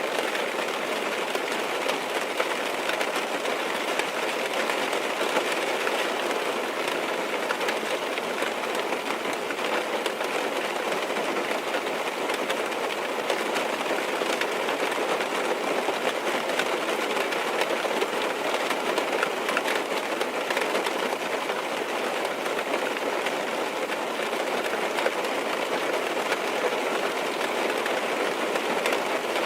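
Steady rain tapping on a car's windows and roof, heard from inside the car as an even patter with faint scattered drop ticks.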